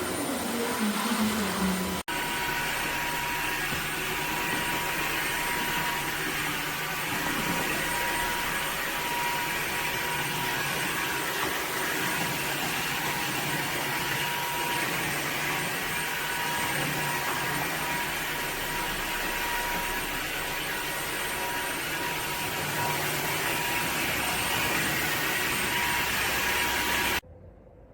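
Dreame H12 Pro cordless wet-dry vacuum-mop running steadily: a motor whine with a steady high tone over a rushing hiss. It cuts off abruptly near the end.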